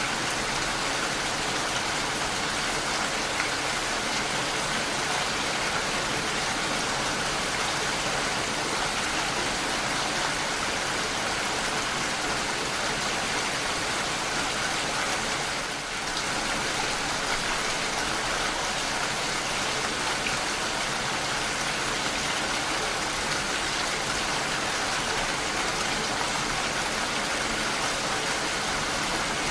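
Steady rain falling, an even hiss without a break, with a brief dip in level about halfway through.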